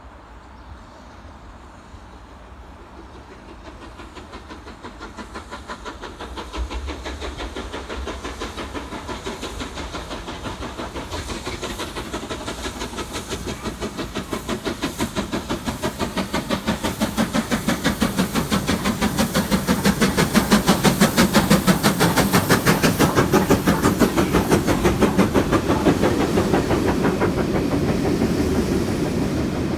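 Steam train double-headed by a B1 Class and a U Class locomotive, working hard with a fast, even beat of exhaust chuffs and steam hiss. It draws steadily nearer and louder, is loudest about two-thirds of the way through, then eases slightly as it passes.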